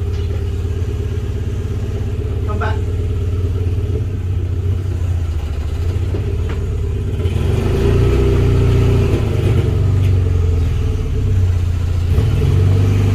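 Mk3 Volkswagen Golf GTI engine running, a steady low hum that gets louder about halfway through as the engine is given more throttle.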